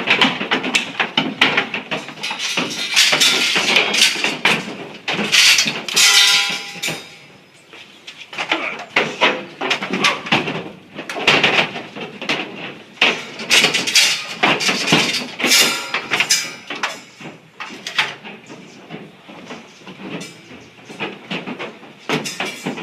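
Cattle hooves clattering and knocking on the metal floor and sides of a livestock trailer, an irregular rush of bangs that eases off for a moment about eight seconds in.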